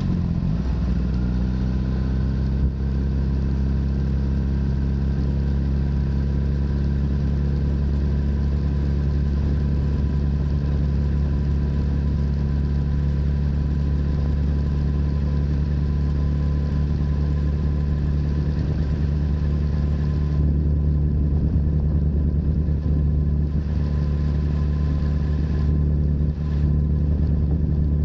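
Honda CBR1000RR's inline-four engine running through a Yoshimura full exhaust, holding a steady engine speed after the revs drop off just at the start.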